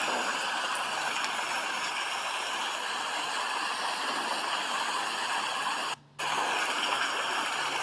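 Steady rain falling, an even hiss of water. The sound cuts out for a split second about six seconds in, then resumes unchanged.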